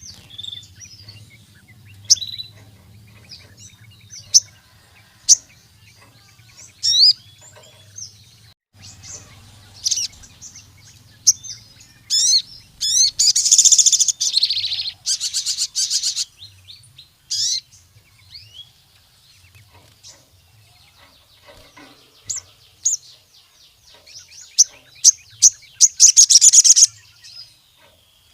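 A sogon, a small Indonesian sunbird, singing energetically in sharp, high chirps and quick up-and-down whistles, with bursts of fast trills that are loudest about halfway through and again near the end.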